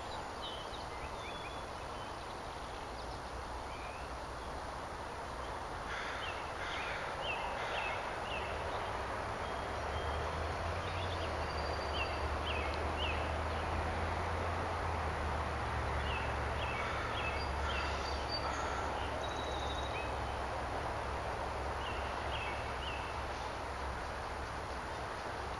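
Birds chirping in short clusters of quick calls over a steady outdoor hiss, with a low rumble coming in about ten seconds in and easing off near the end.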